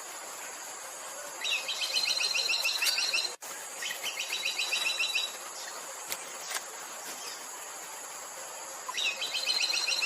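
Buff-rumped woodpecker calling: three rapid, high-pitched trills of repeated notes, each lasting one and a half to two seconds, over a steady high insect hiss.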